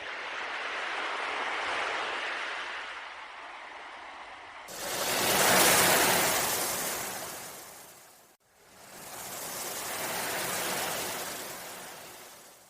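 Ocean waves washing in: a hiss of surf that swells and fades three times, the middle surge about five to six seconds in the loudest and brightest.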